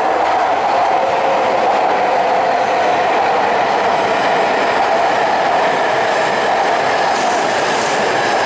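E5 series Shinkansen train pulling into the platform and slowing: steady rolling and running noise with a faint motor whine.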